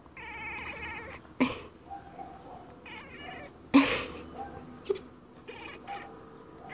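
Siamese cat chattering at birds: three bursts of rapid, stuttering chatter, the first about a second long. Two short sharp sounds break in between them, the louder one near the middle.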